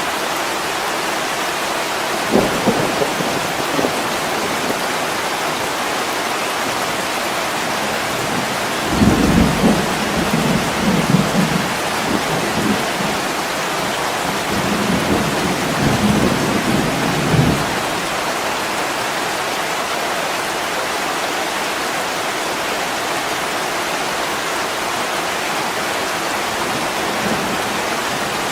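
Heavy rain falling steadily, with a short crack of thunder about two seconds in and a long, rolling rumble of thunder from about nine to seventeen seconds.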